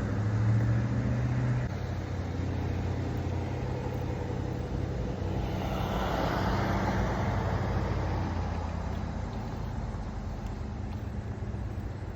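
Steady low hum of an idling car engine, with another vehicle passing, its tyre and engine noise swelling and fading about five to eight seconds in.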